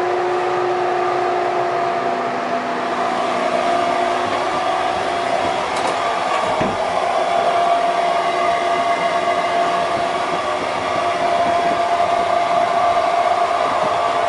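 Steady rumble and rushing noise of a Mugunghwa-ho passenger train running, heard inside its onboard toilet compartment, with a steady hum over it. A single short knock sounds a little before halfway.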